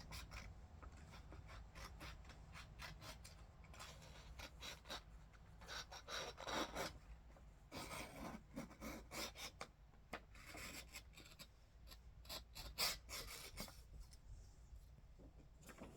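Scissors cutting paper: a quiet, irregular run of short snips and rustles.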